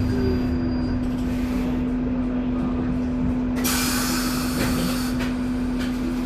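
Isuzu Erga EV electric bus running, heard from inside the cabin: a steady electric hum over road noise, with a loud hiss starting a little past halfway and fading about two seconds later.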